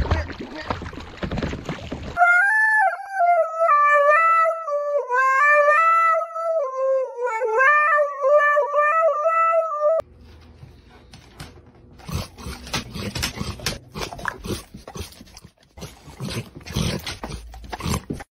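A dog howling: one long, wavering, unbroken howl lasting several seconds, which cuts off abruptly and is followed by quieter scattered clicks and rustling.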